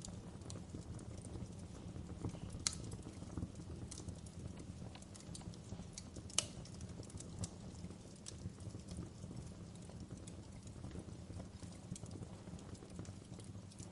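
Wood campfire crackling: scattered sharp pops and snaps, two louder cracks a few seconds apart, over a low steady rumble of the fire.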